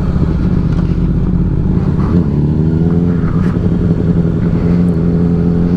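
Motorcycle engine running, heard from the rider's helmet with rumble underneath. About two seconds in, the engine note settles to a steady pitch.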